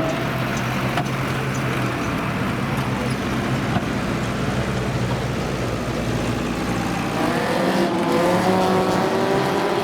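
Several banger racing cars' engines running hard in a race, a dense mix of engine and track noise. Near the end, several engines rise in pitch together as they rev.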